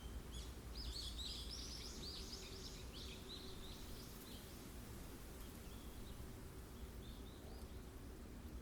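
Wind blowing through a forest as a steady low noise, with a bird giving a fast twittering phrase of rapid high notes lasting about three seconds, starting about half a second in. A few faint bird notes follow near the end.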